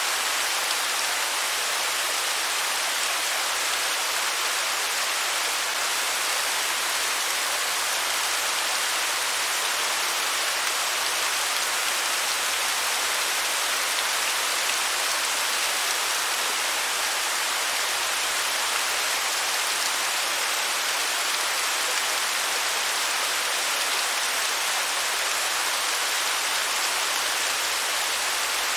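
Waterfall: water falling and splashing in a steady, even hiss, bright and with little low rumble.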